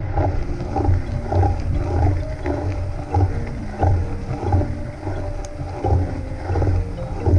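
Onboard riding noise from a mountain bike on a snowy trail: a steady rumble that swells in an even pulse about one and a half times a second.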